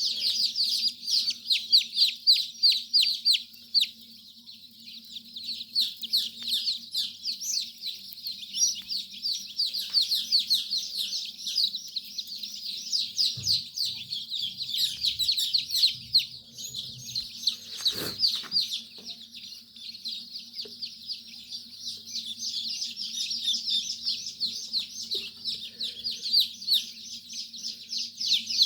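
A crowd of young chicks peeping nonstop, a dense chorus of short, high, falling cheeps over a steady low hum. A single knock sounds about 18 seconds in.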